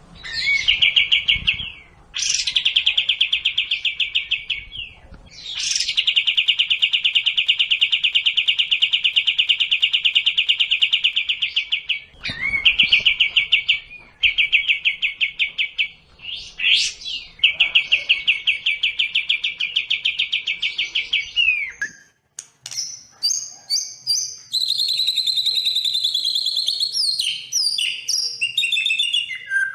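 Songbird song: a run of long, very fast rattling trills, each lasting a few seconds with short breaks between them, then about 22 seconds in a burst of quick, varied whistled notes.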